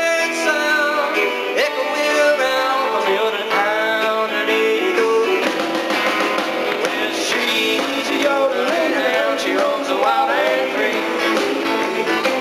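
Live country-rock band playing an instrumental passage, with guitar lines bending and sliding over the band.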